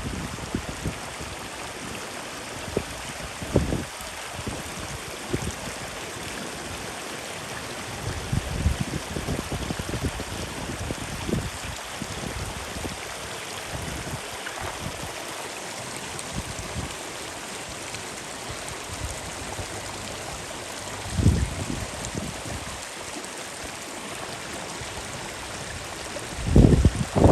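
Wind buffeting the microphone in several low rumbling gusts, the strongest near the end, over a steady rushing hiss of moving water.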